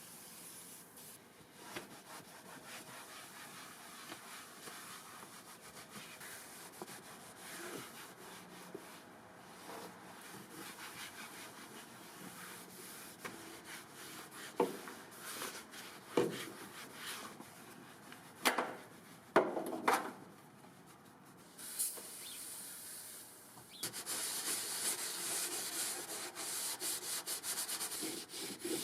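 Hand scrubbing and rubbing on a surface, irregular strokes with a few sharp knocks around the middle, turning louder and brisker near the end.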